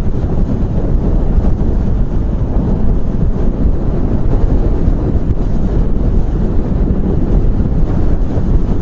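Motorcycle riding noise heard from a microphone inside the helmet padding: a steady low rumble of wind buffeting and road noise, with the bike running underneath.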